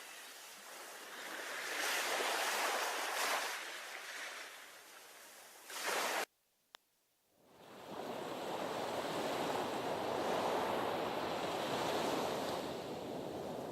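Sea waves washing against a breakwater, swelling and ebbing in surges. About six seconds in, the sound cuts out abruptly to near silence for a second or so, with a single click, before the steady wash of surf returns.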